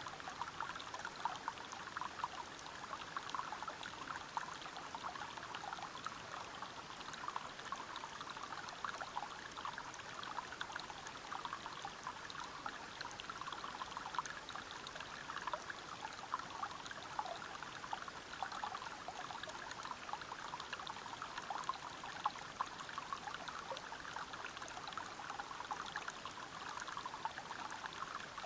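River water running over rocks: a steady splashing rush made up of constant small splatters and burbles.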